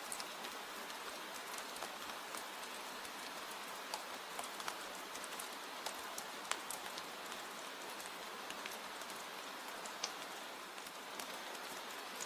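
Steady rain falling, an even hiss with scattered sharp drop ticks, one louder tick about halfway through.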